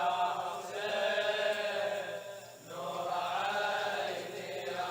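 Male voice chanting a Shia Muharram mourning lament (latmiya) in long, drawn-out melodic phrases. There are two long phrases, with a short dip between them about two and a half seconds in.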